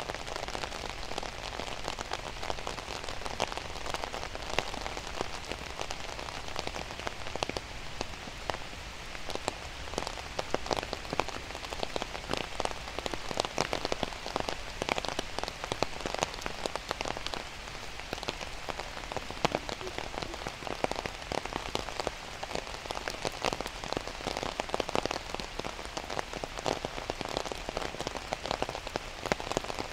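Steady rain falling, with a dense patter of individual raindrops striking close by.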